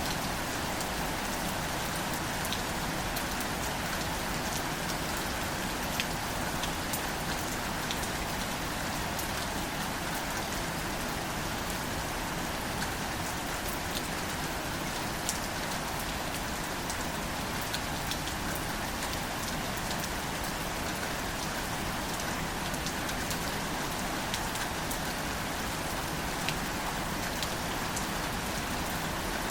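Steady gentle rain falling on greater celandine wildflowers and their leaves: an even hiss of rain with scattered sharper drop hits.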